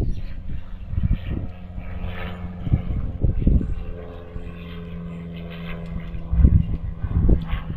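A steady engine drone, one unchanging pitch with its overtones, with gusts of wind buffeting the microphone at the start and again near the end.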